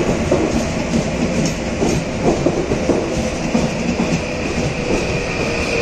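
Passenger multiple-unit train passing close by along a station platform: a steady rolling rumble with irregular clacks as its wheels run over rail joints and points.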